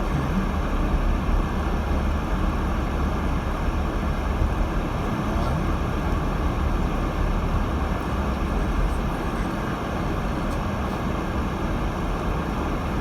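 Steady low rumble of tyres and road noise with engine drone inside the cabin of a 2018 Subaru Crosstrek driving on snowy roads, picked up from the dashboard.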